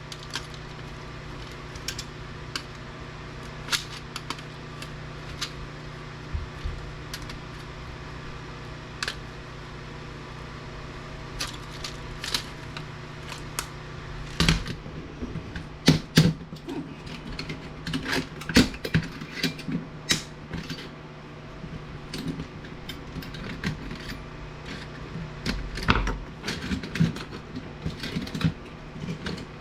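Irregular clicks, knocks and clatter of hand tools against the plastic and metal parts of an APC battery backup unit being taken apart, getting busier and louder about halfway through, over a steady low hum that drops away later on.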